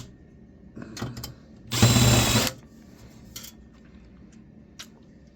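Electric drill-driver whirring in one short burst of under a second, about two seconds in, as a screw is run out of the old computer. Scattered light clicks of parts being handled.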